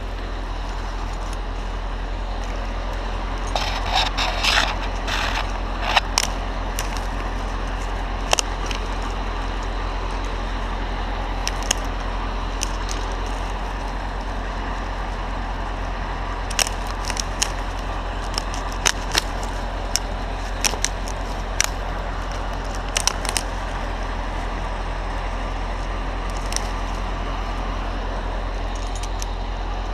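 A steady low engine drone, with scattered sharp clicks and cracks over it, clustered about four to six seconds in and again in the second half.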